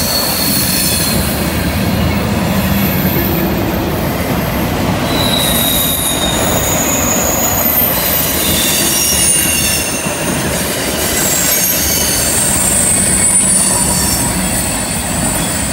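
Freight cars rolling past on a curve: a steady rumble of steel wheels on rail, with thin high wheel squeals coming and going as the flanges grind against the curved rail.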